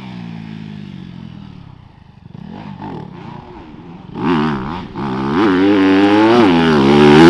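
Dirt bike engine on a motocross track, its pitch falling as the throttle is backed off and growing fainter about two seconds in. From about four seconds it revs up and down several times, getting much louder near the end.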